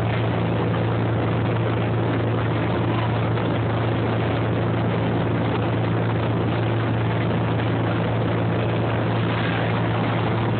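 Motorboat engine running at a steady, unchanging pitch: a low even drone with a constant hiss over it.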